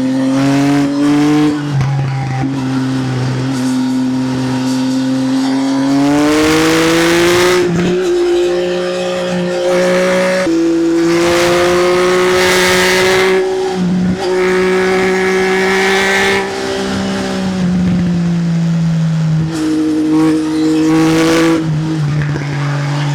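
Triumph Speed Triple's three-cylinder engine through an SC Project exhaust, ridden hard. The revs climb and fall, with the pitch breaking at several gear changes, a long rise around the middle and a drop in revs near the end before it picks up again.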